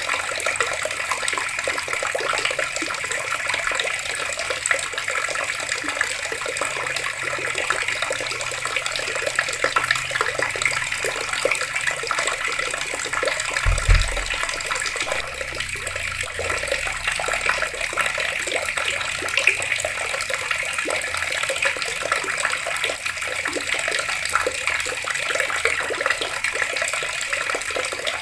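Water running steadily from taps, an even splashing hiss. About halfway through there is a single brief low thud.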